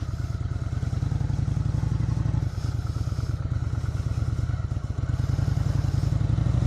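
Motorcycle engine running at low revs with a steady pulsing exhaust note, dipping briefly about two and a half seconds in and then building gradually as the bike pulls away at low speed.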